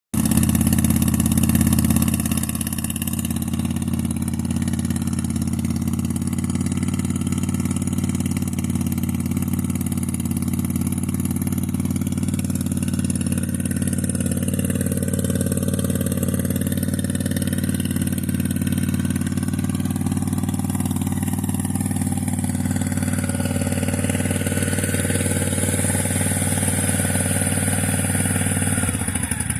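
1998 Honda VT1100 C3's V-twin engine idling steadily through its debaffled stock exhaust, a little louder for the first couple of seconds.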